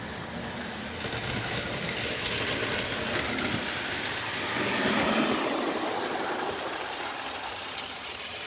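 Lionel O gauge toy train running along its track, wheels and motor making a steady rolling rumble that grows louder to a peak about five seconds in as it comes close, then fades as it moves away.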